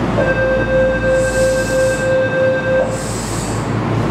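A steady, buzzer-like tone sounds for about two and a half seconds and then stops, over the low, steady hum of a Keihan electric train standing at the platform with its doors open.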